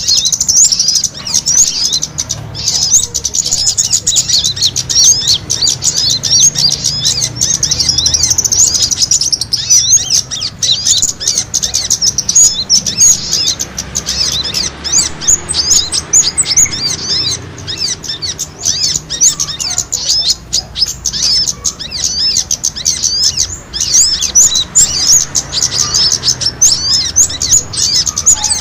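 Small songbirds calling in a dense, fast, continuous stream of high chirps: a bird-trapping lure recording of small birds' fighting calls, used to draw in wild small birds.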